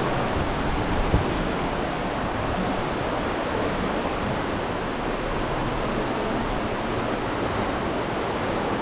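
Aare River water rushing through the narrow limestone gorge: a steady, even rush of fast-flowing water.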